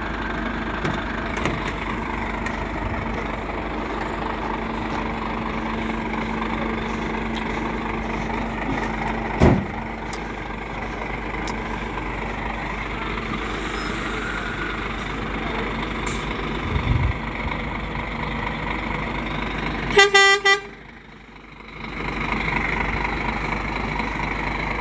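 A truck engine running steadily. About twenty seconds in a horn gives one short honk, and the sound drops away briefly right after it.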